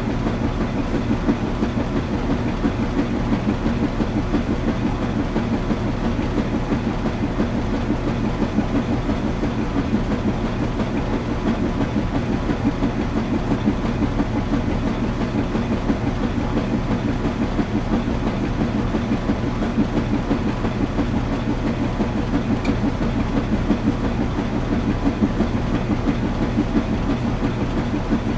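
Washing machine running: a steady, continuous mechanical rumble with a constant low hum underneath, unchanging throughout.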